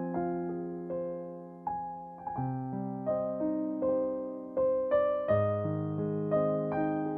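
Background music: a soft piano piece, notes and chords struck every half second or so and left to ring.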